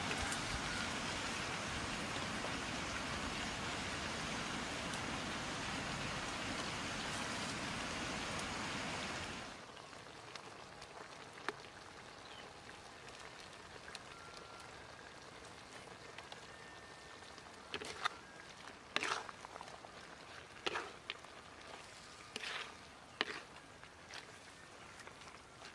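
Sliced vegetables sizzling in a hot pan over a wood fire, a steady loud hiss. About nine seconds in it drops to a quieter sizzle, with scattered knocks and scrapes of a spatula against the pan as the stir-fry is turned.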